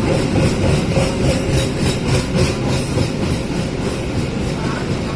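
Train passing on the rails: a steady rumble with a run of rhythmic wheel clacks over the first few seconds.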